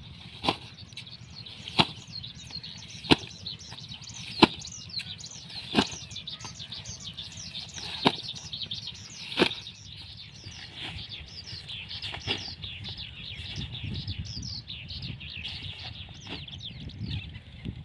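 Small birds chirping: many quick, falling chirps, thickest in the second half. Over the first ten seconds there are seven sharp knocks at fairly even spacing, about one every second and a half, with a low steady rumble underneath.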